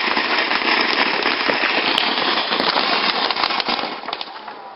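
Firework giving off a dense, continuous hissing crackle made up of many tiny pops, fading out near the end.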